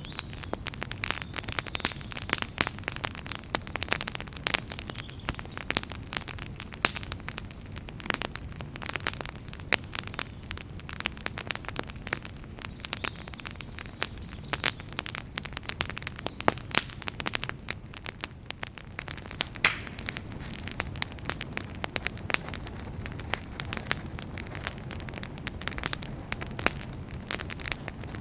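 Wood fire crackling steadily, with many irregular sharp pops and snaps over a low rumble of burning.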